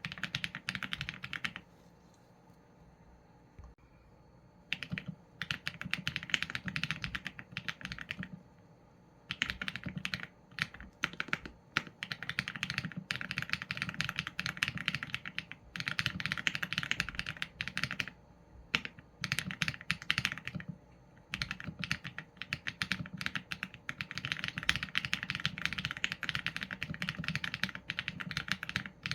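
Typing on a Qsenn A75 mechanical keyboard with Leobog Graywood v4 linear switches and PBT keycaps: fast runs of key clacks in bursts of a second or more, broken by short pauses, with a longer pause a couple of seconds in.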